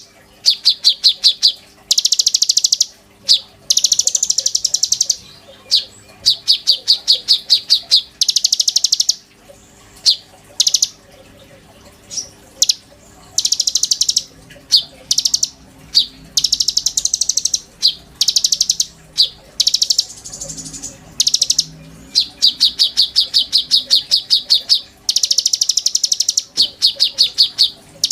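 Konin songbird singing loudly in repeated fast trills. Each burst lasts a second or two and is a rapid series of evenly spaced high notes, with short pauses between bursts.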